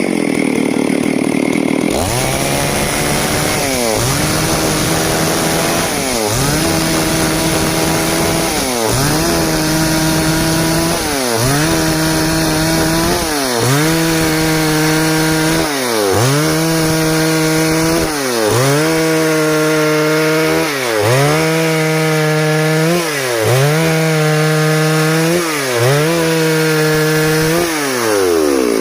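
Stihl MS 382 two-stroke chainsaw running at high revs while cutting wood along a board. Its engine note dips and climbs back again roughly every two and a half seconds.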